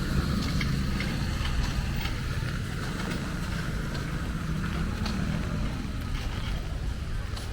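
Outdoor street ambience: a steady low rumble with scattered light clicks and knocks.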